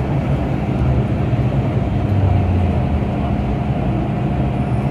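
MTR Tsuen Wan line M-train running at steady speed: an even rumble with a steady electrical hum from its traction equipment.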